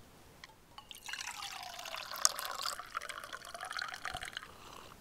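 Liquid being poured or splashed, starting about a second in and fading out near the end.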